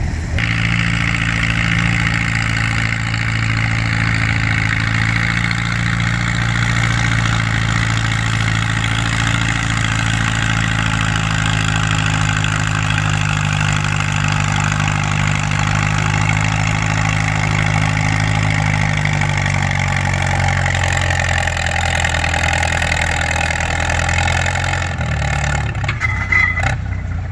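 Farm tractor engine running steadily at high throttle under load, pulling the weight sled. Its note sags slowly in the last third as the engine is pulled down, then drops abruptly near the end as the pull ends.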